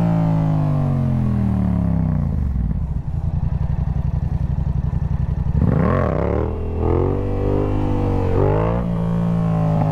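Yamaha sportbike engine. The revs fall over the first two seconds or so into a slow, pulsing low-speed run, then a quick rev up and back down about six seconds in, and the revs climb again before levelling off near the end.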